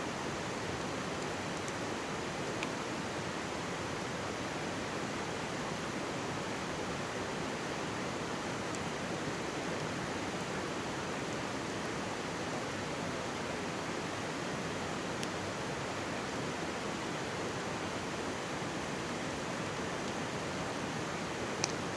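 Steady rushing and babbling of a mountain stream close by, with a few faint sharp pops from a wood campfire, the loudest near the end.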